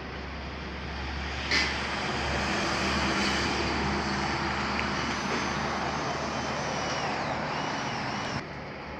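Steady vehicle engine and road noise with a low hum. A louder, noisier layer cuts in suddenly about a second and a half in and stops abruptly near the end.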